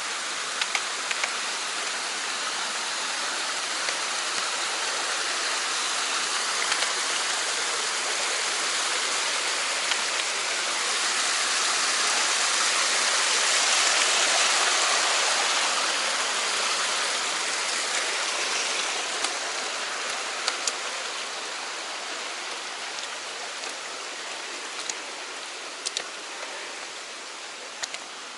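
Mountain stream rushing over rocks, growing louder toward the middle and fading off toward the end, with a few faint sharp clicks.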